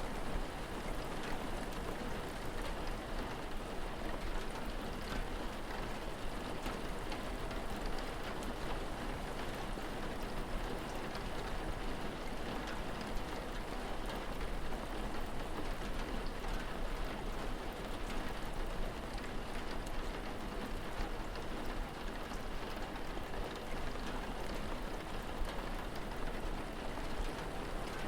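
Steady rain falling: an even hiss with scattered tiny drop ticks, over a constant low rumble.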